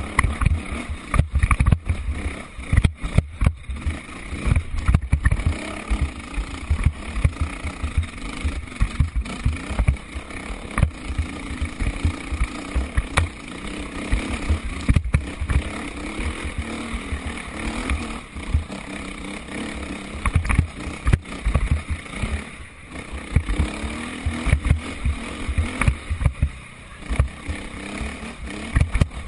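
Motocross dirt bike engines running on the track, a steady buzzing drone, with frequent uneven low thumps on the microphone.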